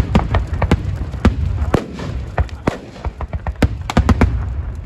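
Fireworks going off: a rapid, irregular run of sharp bangs and cracks over a low rumble.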